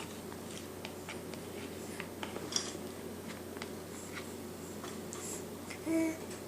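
Faint scattered clicks and small mouth sounds from a baby in a high chair, with one short baby vocalization about six seconds in.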